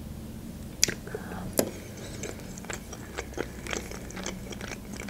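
Close-miked eating: a forkful of food taken into the mouth and chewed, with wet mouth clicks and smacks. Two sharper clicks in the first two seconds are the loudest sounds, followed by a run of smaller chewing clicks.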